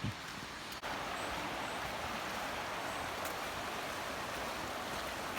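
Steady rush of flowing river water, an even hiss that starts abruptly a little under a second in and holds level.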